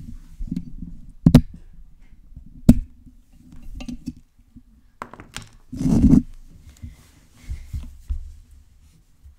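Fingers scratching and rubbing directly on a microphone: uneven low rubbing thuds, two sharp knocks at about one and a half and three seconds in, and a louder rumbling scrape about six seconds in.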